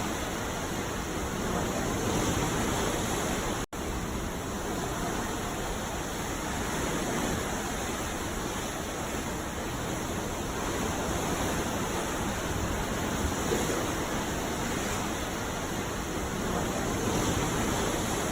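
Ocean surf breaking on a beach: a steady wash of water noise that swells and eases slowly, with an instant's dropout about four seconds in.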